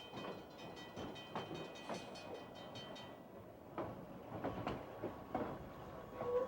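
Train running on rails: a steady high-pitched squeal for about the first three seconds, then a series of uneven clanks and clacks.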